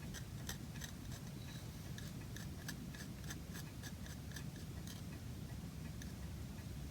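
A run of light, sharp clicks, about three a second, that fades after about five seconds.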